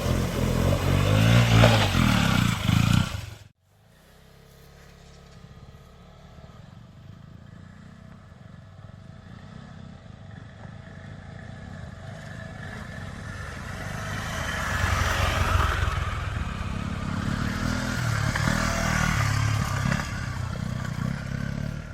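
KTM motorcycle engines running. The sound cuts off abruptly about three and a half seconds in, then an engine grows steadily louder and runs loudly through the second half.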